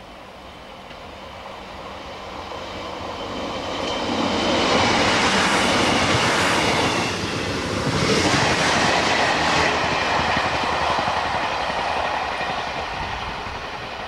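A two-car British Rail Class 158 diesel multiple unit passing at speed: engine and wheel-on-rail noise swell to a peak after about four seconds, dip briefly in the middle, then fade away as the train recedes.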